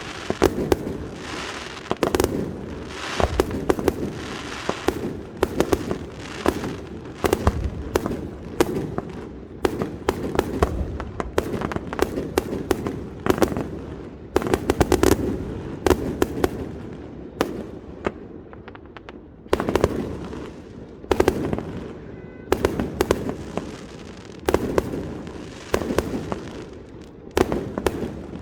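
Aerial fireworks display: a continuous barrage of shell bursts and crackling, several sharp bangs a second with echoing tails, easing briefly about two-thirds of the way through before building again.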